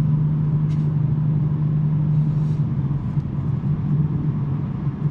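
2023 BMW M3 G80 twin-turbo straight-six engine and non-resonated J-pipe exhaust droning steadily at an even pitch, with road noise beneath.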